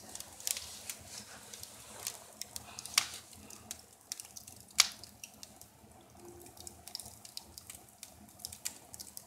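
Wood fire crackling in a fireplace: irregular snaps and pops, with one sharp, louder pop about five seconds in.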